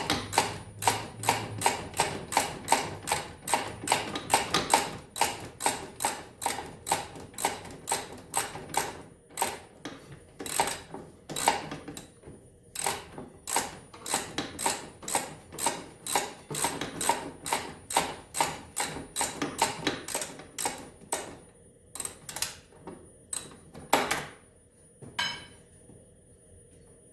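Hand ratchet clicking in a steady rhythm, about two clicks a second, as a bolt is worked loose; the clicking slows and stops near the end.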